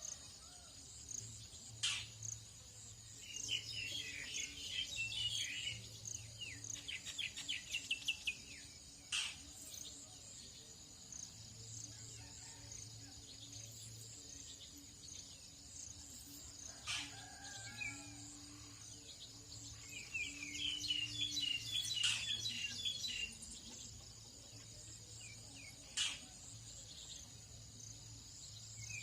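Tropical dawn chorus: wild birds twittering in two long bursts of rapid chirps, with a few sharp single calls between them, over a steady high-pitched buzz of insects.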